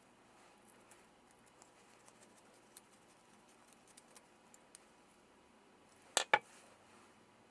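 Faint scattered ticks and light taps of small parts or tools being handled, then two sharp clicks in quick succession about six seconds in.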